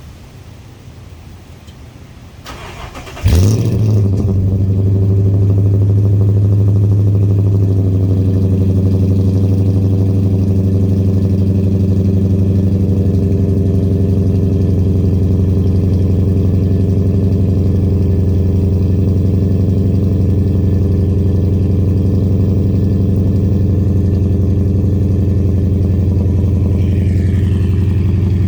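2010 Toyota Tundra with an MBRP aftermarket exhaust on a cold start: the starter cranks briefly about three seconds in, the engine catches, and it settles into a steady idle through the exhaust.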